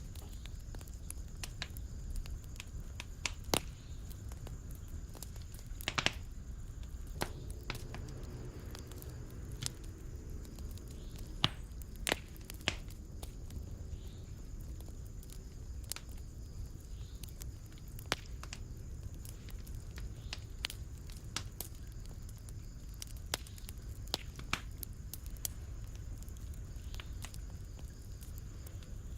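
Wood fire in a fireplace crackling, with irregular sharp pops and snaps over a low, steady rumble of flames. A few louder pops come about six seconds in and again around twelve seconds in.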